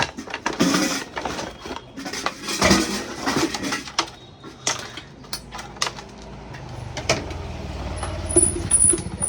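Sharp clicks and knocks of small hard parts being handled, then a low steady hum begins about six and a half seconds in, with a thin high tone near the end.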